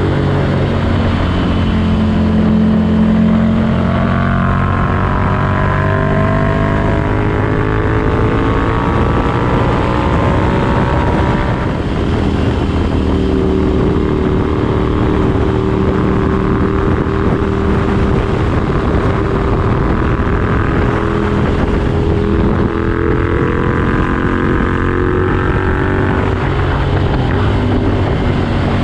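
Ducati Desert Sled's air-cooled 803 cc L-twin running through a Competition Werkes aftermarket exhaust, loud and steady, its engine speed gliding up and down several times.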